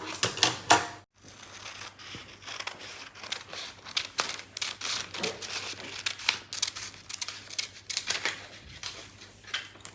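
Scissors cutting through a sheet of paper: a run of short snips with paper rustling and crinkling as it is handled.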